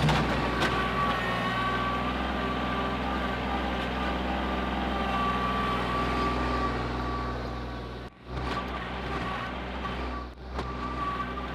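Engine of heavy earthmoving machinery running steadily, with a steady high whine over it. The sound drops out briefly about eight seconds in and again near ten and a half seconds.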